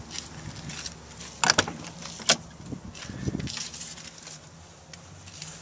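A pickup truck door being opened: two sharp latch clicks, then a duller thump.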